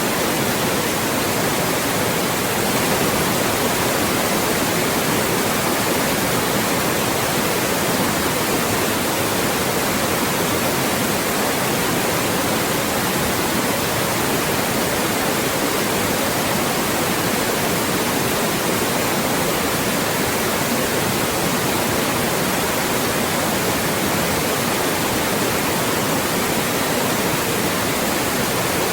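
Loud, steady white noise: an even hiss across the whole range, unchanging throughout.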